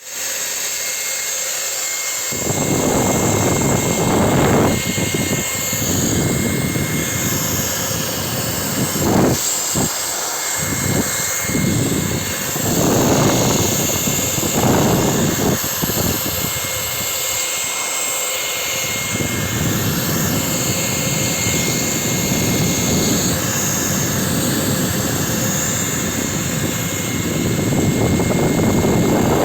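VW petrol engine's secondary air injection pump running, with a rushing air noise that swells and fades irregularly: the sign of air escaping through a hole in the pump's air hose.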